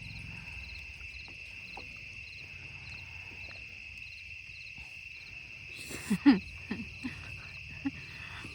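Steady chorus of crickets and other night insects, with regular pulsed chirping. About six seconds in comes a brief hummed 'mm' from a person eating, then a few small clicks.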